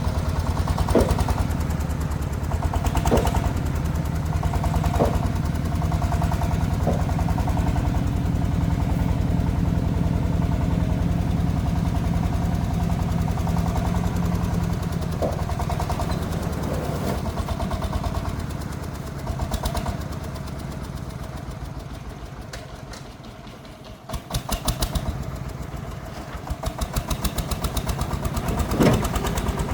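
Diesel engine of a công nông agricultural truck running with a steady low, even thumping, with a few sharp knocks over it. The engine sound dies away about two thirds of the way through, then comes back suddenly and builds again.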